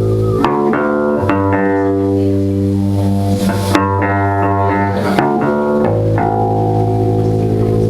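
A band playing live: electric guitar and bass guitar holding ringing notes and chords that change every second or so.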